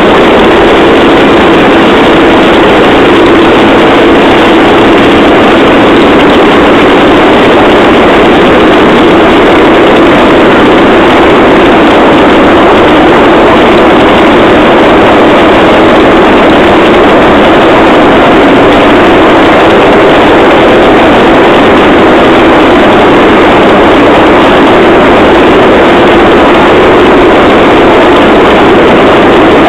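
Engine-driven rail trolley running along the track: a loud, steady drone of engine and wheel noise that does not let up.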